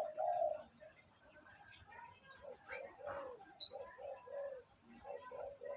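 Birds calling: a run of short, low cooing notes, two to three a second, from about halfway in, with a few quick high chirps in the middle.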